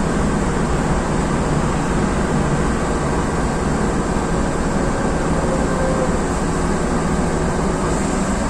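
Chichibu Railway electric train running at low speed, heard from inside the driver's cab: a steady noise of motors and wheels on the rails, with a faint held tone near the middle.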